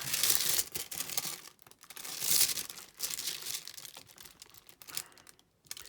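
Thin plastic crinkling and rustling as it is handled. The louder bursts come at the start and about two seconds in, followed by lighter rustles and small clicks.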